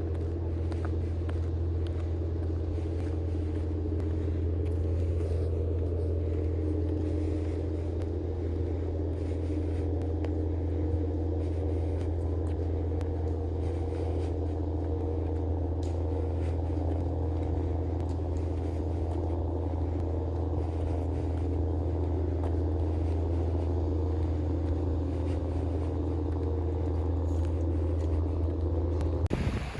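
Steady low rumble of a running motor vehicle, like a car on the move, with a constant low hum that cuts off abruptly near the end.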